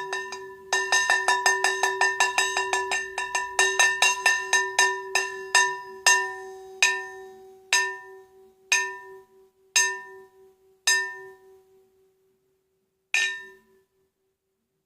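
A metal bell rung rapidly, about four or five strikes a second over a steady low ring. The strikes slow to single rings about a second apart and stop, then one last strike comes near the end and rings away.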